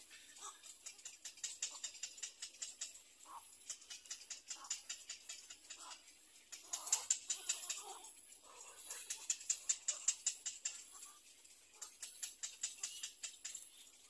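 Birds calling in a rapid ticking chatter of about eight ticks a second, in repeated bouts a second or two long, with a few lower call notes mixed in.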